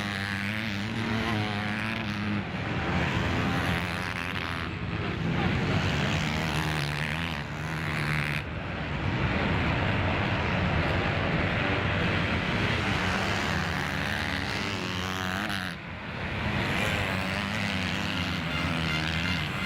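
Motocross bikes racing, their engines revving up and down as they pass.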